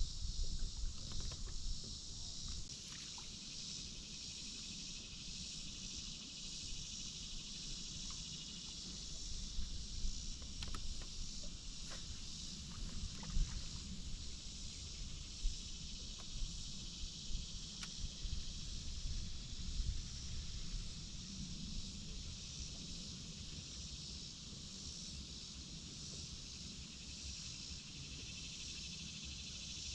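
Insects droning steadily in a high band over a low rumble, with a few light knocks about ten to fifteen seconds in.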